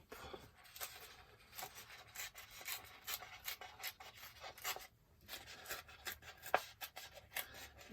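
A sheet of craft paper being torn by hand: a quiet, irregular papery crackle and rasp made of many small ticks, pausing briefly about five seconds in.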